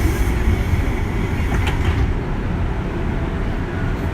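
JR West 201 series electric train running between stations, a steady low rumble of wheels and running gear, with a faint rail click about a second and a half in.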